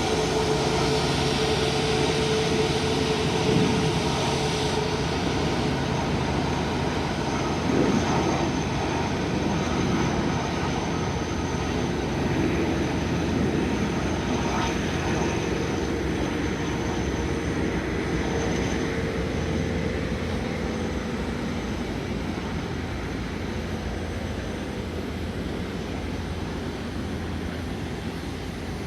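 Twin jet engines of an Airbus A330 airliner running with a steady roar and a thin whine, slowly fading over the last third.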